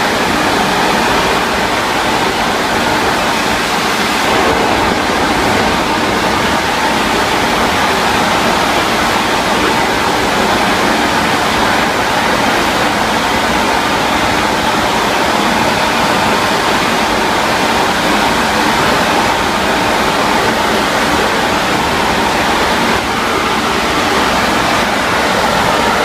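Steam locomotive's boiler venting steam pressure: a loud, steady hiss of escaping steam that holds unbroken throughout.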